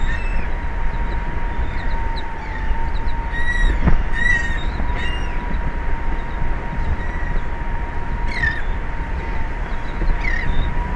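Seabirds calling over a steady wind rumble on the microphone, with a constant high hum underneath. The calls come in short rising and falling cries, a cluster about three and a half to five seconds in and single calls near eight and a half and ten seconds.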